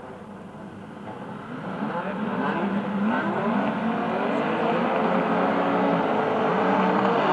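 Several rallycross cars revving their engines together on the start grid, many engine notes rising and falling over one another and growing steadily louder.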